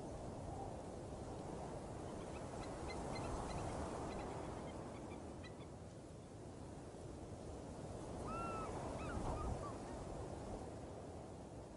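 Outdoor ambience: a steady low rumble of wind-like noise, with faint high chirps a few seconds in and a few short, curved, bird-like calls near the end.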